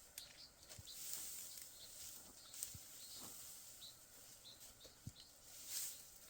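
Faint outdoor field ambience with scattered short bird chirps and a few brief rustles.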